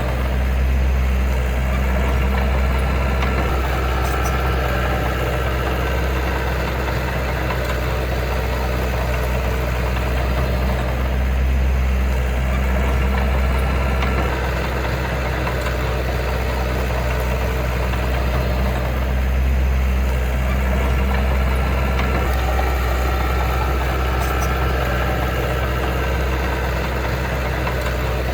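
Heavy-equipment diesel engine running steadily with a deep rumble, its level swelling and easing gently a few times.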